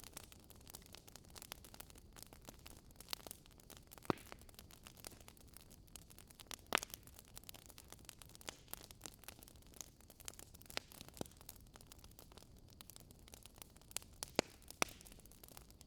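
Wood fire burning in a fireplace: quiet, irregular crackling over a soft hiss, with a few sharper pops from the burning logs, about four seconds in, near seven seconds, and twice near the end.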